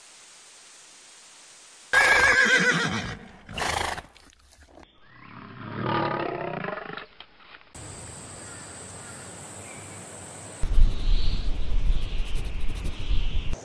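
Two animal calls, the first about two seconds in with a wavering pitch, the second around six seconds with a bending pitch, followed near the end by a low rumble with loud irregular thumps.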